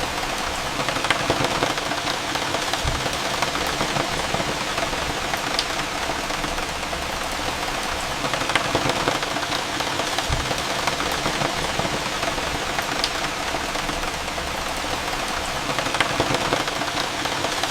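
Steady rain falling, with many scattered drops striking close by and a steady low hum underneath.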